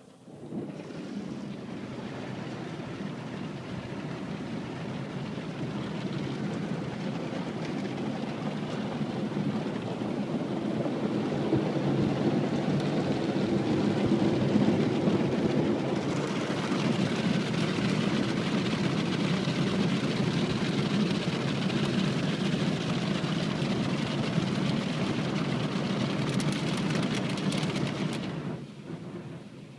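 Car wash water jets spraying against a car: a steady rushing that starts suddenly, grows louder and brighter about halfway through, and falls away near the end.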